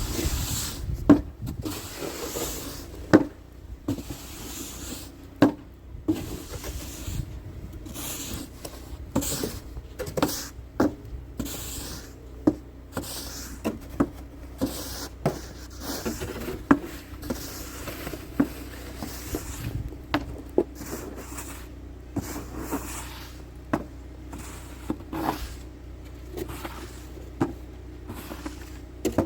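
Snow shovel being pushed and scraped along a snowy driveway, over and over: a sharp knock as the blade hits the pavement, then a scraping hiss, roughly once a second.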